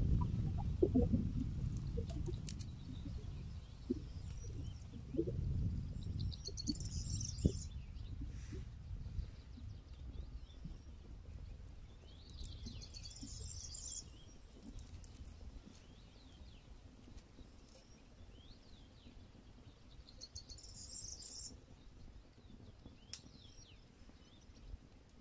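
A songbird repeating the same short, high song phrase three times, about six to eight seconds apart, with a few faint chirps in between. Under it, a low rumble fades away over the first several seconds.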